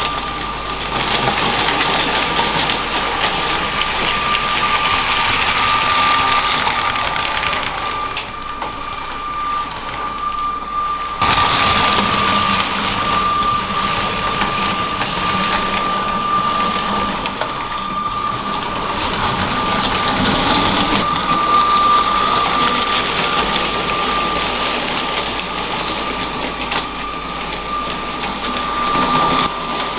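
LEGO train's small electric motor running along the track with a steady whine over a noisy rattle. The sound drops for a few seconds and comes back abruptly about eleven seconds in.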